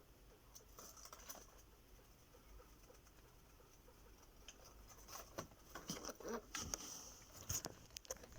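Fancy rat eating watermelon: faint scattered small clicks and taps of nibbling, growing busier about halfway through.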